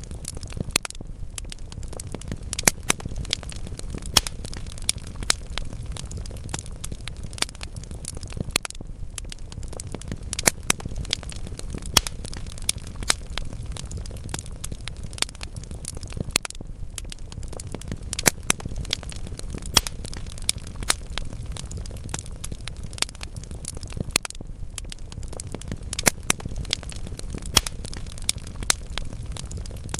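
Wood logs burning in a fireplace, crackling steadily with frequent sharp, irregular pops over a low rumble of flame.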